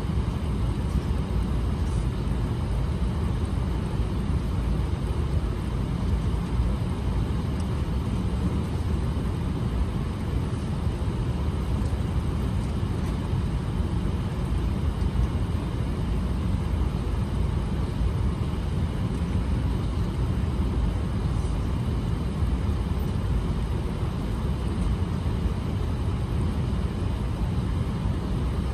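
Airbus A380 passenger cabin noise in flight: a steady low rush of airflow and engine sound with no changes.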